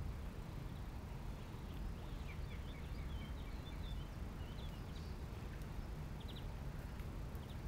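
Small birds chirping faintly in short high calls, a run of them from about two seconds in and a brief few near the end, over a steady low background rumble.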